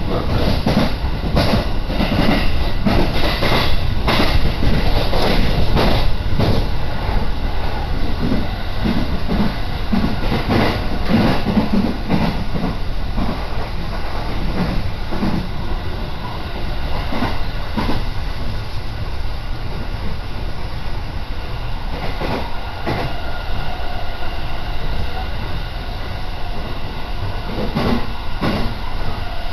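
Commuter electric train running, heard from inside the carriage, with repeated clacks of the wheels over rail joints. The running noise eases off in the second half as the train slows into a station.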